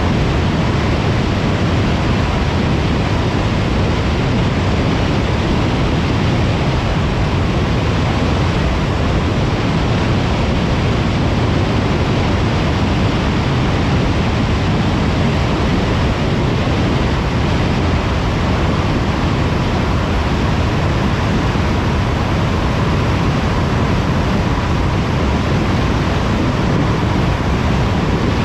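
Steady, even rushing of a car driving at motorway speed, mostly tyre and wind noise, with a faint steady tone in it.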